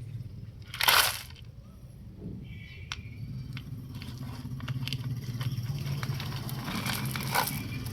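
Small gravel sliding out of a toy tipper truck's tipped bed: a short rush of grit about a second in, then scattered pebbles trickling and clicking. A steady low hum runs underneath.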